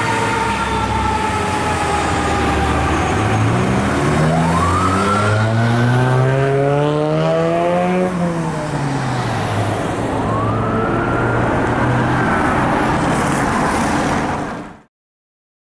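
Fire engine siren on a 2007 Pierce Arrow XT, wailing in slow sweeps that rise and fall in pitch as the truck goes by. It cuts off abruptly near the end.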